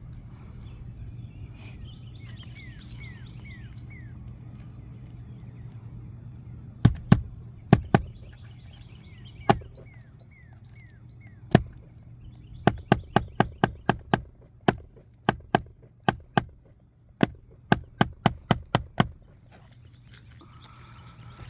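A series of sharp, loud knocks: a few spaced a second or more apart starting about a third of the way in, then a quicker run of roughly three a second. A steady low hum runs underneath, with a few faint descending bird chirps in the quieter stretches.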